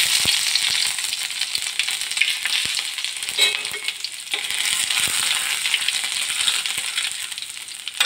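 Ginger-garlic paste sizzling and crackling in hot mustard oil in a kadhai, frying together with cumin seeds and asafoetida.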